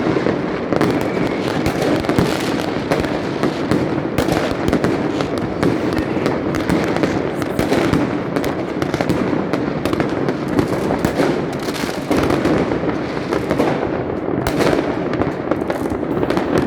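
Many fireworks going off at once across a city, a continuous dense rumble of booms with countless sharp bangs and crackles overlapping.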